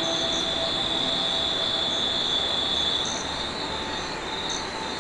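Insects in the bush, a steady high-pitched drone that fades about three seconds in, with a few short higher chirps over it.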